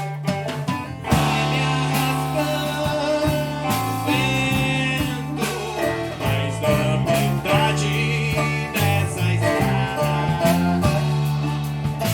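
Live acoustic-electric band music: viola caipira and guitar strumming and picking over an electric bass line and drum kit, filling out about a second in.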